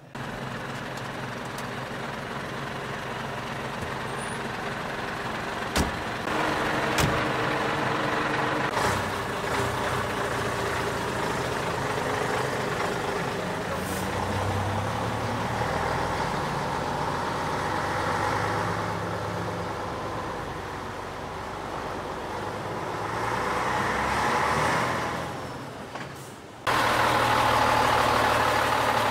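Heavy truck engine running under way, its note swelling and easing. There are a couple of sharp clicks a few seconds in, and near the end an abrupt cut to a louder engine sound.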